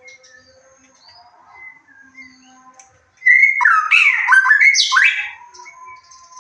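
White-rumped shama (murai batu) singing. Faint scattered chirps are followed, about three seconds in, by a loud two-second phrase of rapid sweeping whistles and chattering notes.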